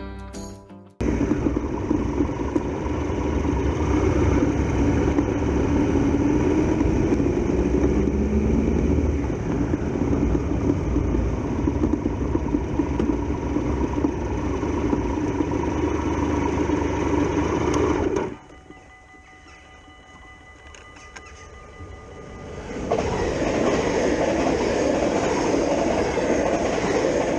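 Passenger train passing a level crossing at speed: a loud, steady rush of wheels on rails with some clickety-clack. It cuts off sharply about two-thirds of the way through, leaving a quieter stretch with a few steady tones. Then a second loud passing rush rises near the end.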